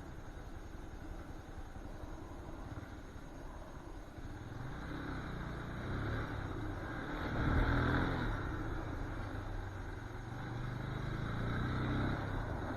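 A motor vehicle's engine approaching and passing, growing from about four seconds in and loudest about halfway through, then a second swell near the end.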